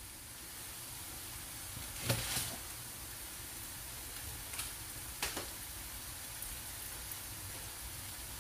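Shrimp paste (alamang) with onion, garlic and chili sizzling steadily in a frying pan. A few sharp clicks come through, the loudest about two seconds in.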